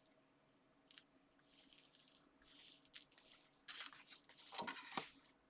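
Layers of card and patterned paper being handled and slid into place on a card base: soft rustling swishes, louder near the end, with a few light taps.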